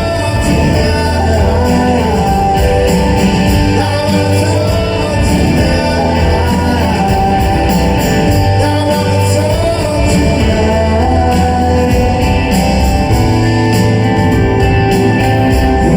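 Live rock band playing with singing, loud and continuous.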